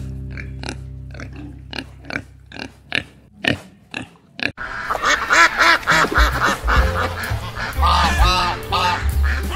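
Piglets give short grunts, about three a second, over a fading music chord. About halfway through, a flock of white domestic ducks takes over, quacking densely and overlapping.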